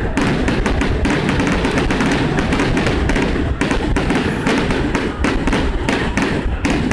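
Fireworks going off in a rapid, dense barrage: many sharp bangs and crackles a second, overlapping over a continuous low rumble.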